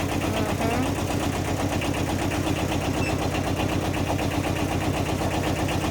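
Kubota TD15S mini dozer's diesel engine idling steadily, with an even, rapid firing beat.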